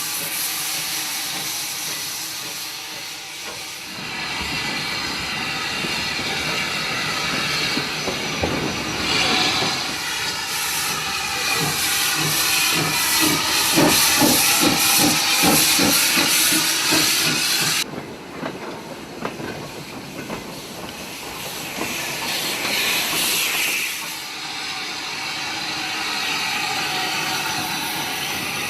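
Andrew Barclay 0-4-0 steam locomotive hissing steam. The hiss swells to its loudest in the middle with a run of regular beats, about two a second, then cuts off suddenly about two-thirds through. After that come quieter hiss, scattered clicks and a brief second swell.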